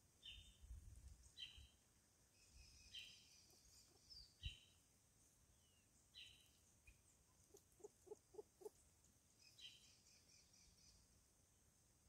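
Faint birdsong: one bird repeating a short descending call every second or two, with higher chirps and twitters from other birds, and a quick run of low notes about eight seconds in. A soft low bump about four seconds in.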